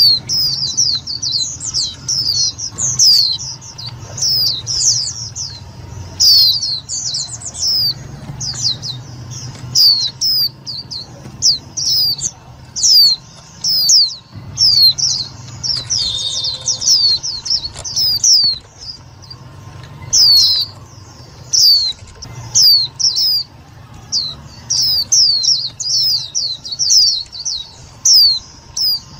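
A white-eye singing a rapid run of high, quick down-slurred chirps in bursts with short pauses, over a low steady hum.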